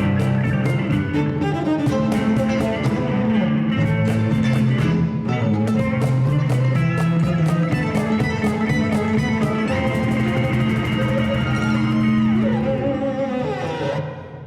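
Live acoustic string band playing an instrumental: bowed cello with guitar and mandolin, driven by many quick rhythmic hits. Near the end a note slides down and the piece comes to a stop, ringing away.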